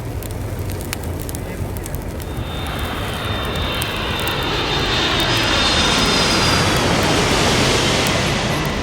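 A vehicle passing: a rushing noise that swells over several seconds, peaks about six seconds in, then begins to fade, with a high whine that slowly falls in pitch.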